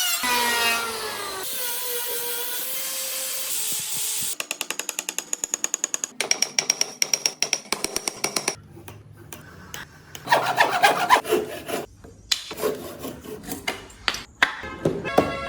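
Woodworking tool sounds on wood: a power tool's whine changing pitch as it winds down, a stretch of steady abrasive noise, then fast even rubbing strokes on wood at about six a second, followed by slower, irregular scraping strokes.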